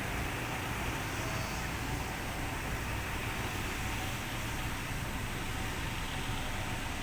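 Steady low rumble and hiss of background noise, unchanging throughout.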